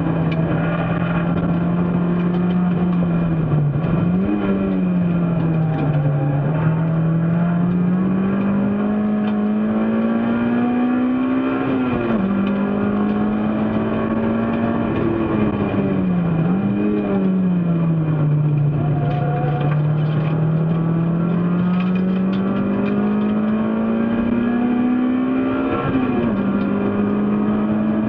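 A race car's engine pulling hard under load. Its note climbs slowly and drops sharply at an upshift about twelve seconds in and again near the end. It dips and picks up again briefly a few seconds in and twice around the middle, as the driver lifts or changes down.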